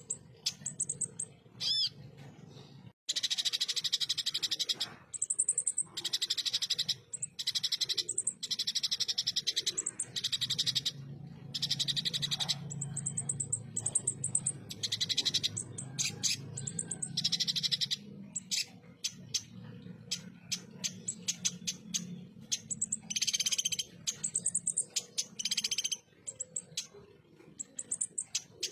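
Kolibri ninja sunbird (konin) singing in a string of harsh, rapid, high-pitched rattling bursts with short gaps between them, the shot-like 'tembakan kasar' song used to train competition songbirds.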